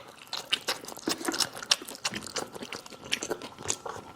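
Close-miked chewing and crunching of crispy fried chicken, a quick irregular run of sharp crackly bites and mouth sounds.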